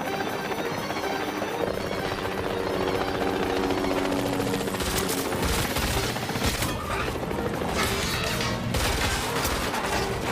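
Action-film soundtrack: background score music mixed with rapid gunfire and sharp bangs.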